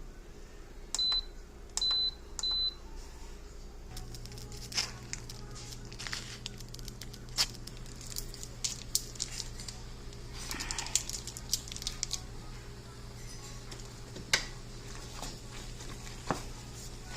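Electric rice steamer's panel beeping three short times as it is set, then a steady low hum from about four seconds in as it starts running, with scattered light clicks.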